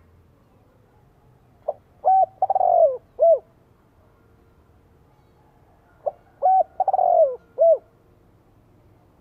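Spotted dove cooing its territorial song twice, each phrase a short note, a rising-and-falling note, a long falling coo and a short arched closing note, about four seconds apart. This is a decoy bird's call, used to provoke wild spotted doves into answering.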